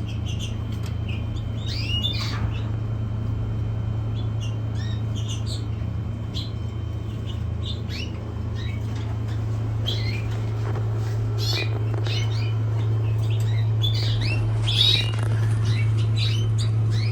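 Caged canaries and finches chirping and calling in short, scattered notes over a steady low hum.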